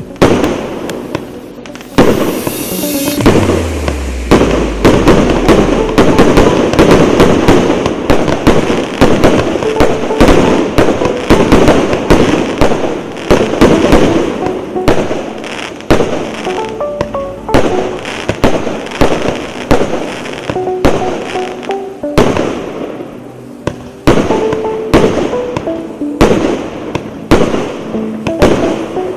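A 297-shot consumer firework battery firing a dense, continuous barrage of launches and bursts, many reports a second with crackling in between.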